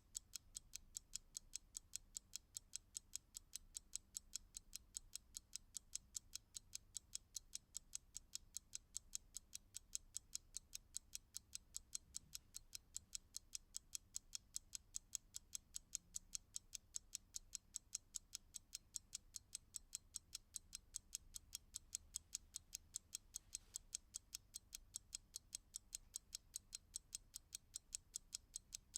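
Clock ticking steadily, with sharp even ticks about three times a second.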